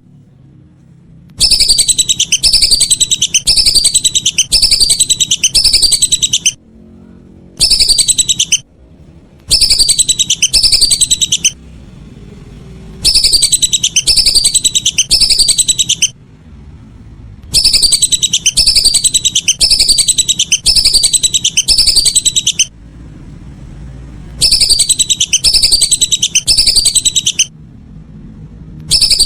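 Lesser whistling ducks calling: phrases of loud, high whistles, each note falling in pitch and repeated about twice a second, broken by short pauses between phrases.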